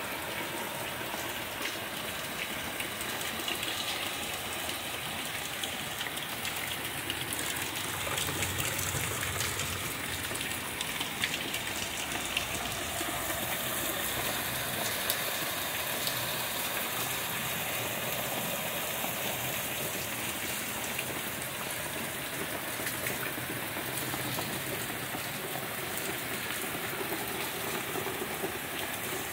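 Steady rain falling on a backyard garden, an even hiss of rain on surfaces with a few sharper ticks of drops.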